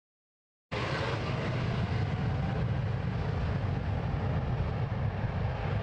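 Jet airliner engines rumbling at an airport, a steady deep roar with a faint whine above it. The audio drops out to total silence for just under a second at the start.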